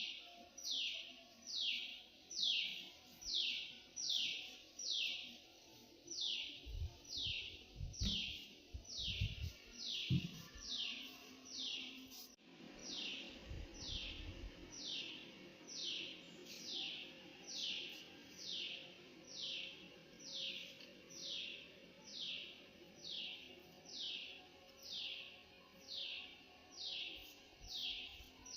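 A bird calling over and over: a high, clear note sliding downward, repeated steadily about one and a half times a second. A few low thumps, like wind or handling on the microphone, come around the middle.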